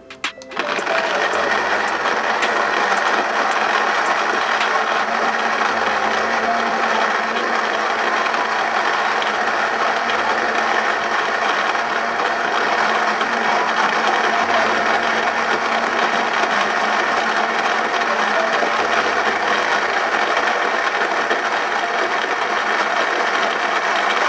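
Battery-powered Lavida electric coffee grinder running, grinding coffee beans: its motor starts suddenly about half a second in and runs steadily with a rattling grind.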